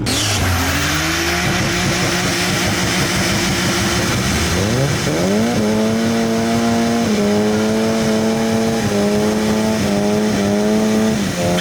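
A modified car revving hard with its tyres spinning and squealing, a loud hiss of tyre noise throughout. The revs climb about a second in and again around five seconds, then hold high with small dips until near the end.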